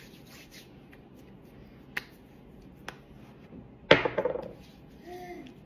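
Cosmetic bottles and cases being handled on a hard surface: two light clicks, then one sharper knock just before the four-second mark that rings on briefly.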